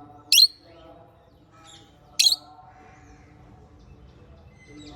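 Small pet parrots giving short, loud, shrill calls: two about two seconds apart, and a third starting right at the end, over a faint lower murmur.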